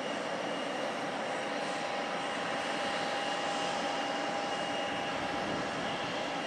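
Jet airliner engines running, a steady rushing noise with a faint, even whine over it.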